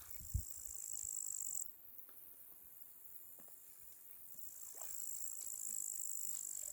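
Crickets trilling in a steady, high-pitched buzz that cuts off abruptly after about a second and a half, then swells back in a few seconds later.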